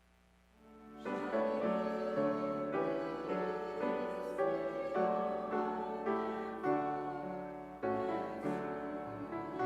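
Instrumental music led by piano, starting about a second in after a brief near-silent pause, playing sustained chords that change every second or so.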